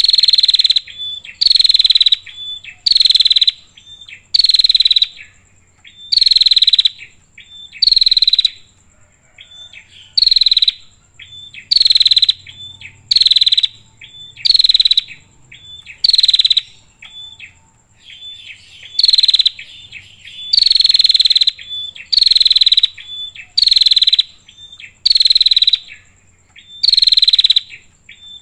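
Female prenjak, a small Indonesian songbird, calling over and over: harsh, buzzy notes that fall slightly in pitch, each under a second, coming about every one and a half to two seconds, with short thin pips between them. It is the female's call to a male.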